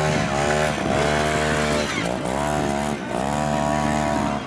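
Small trials motorcycle engine revving up and down in short throttle blips, its pitch rising and falling about once a second.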